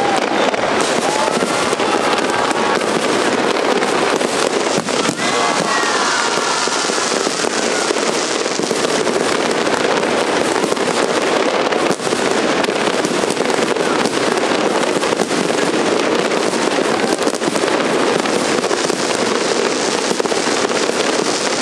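A large fireworks display going off without a break: dense crackling with rapid pops and bangs, steady and loud throughout.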